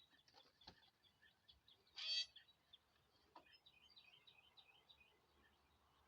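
Birds chirping faintly with many short, high chirps. One louder, harsher call comes about two seconds in.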